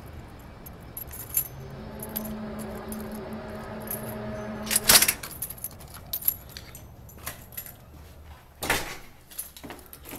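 Rattling and clicking handling sounds with a low steady hum, broken by one loud knock about five seconds in, after which the hum stops and only scattered clicks and rattles remain.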